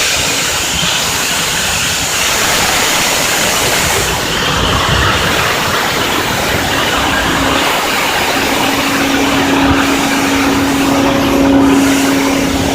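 D51 steam locomotive giving a steady, dense hiss and rumble, with a low steady tone joining about halfway through and holding.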